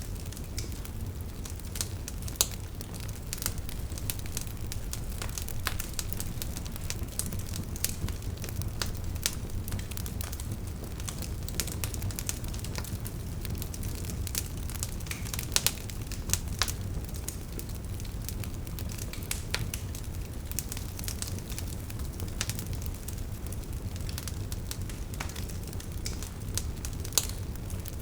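Wood fire crackling, with irregular sharp pops from the burning logs over a steady low rumble. A few pops stand out louder: near the start, about halfway through and near the end.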